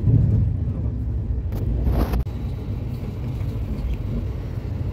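Jan Shatabdi Express passenger coach running along the track, a steady low rumble, with a brief louder rushing noise about two seconds in.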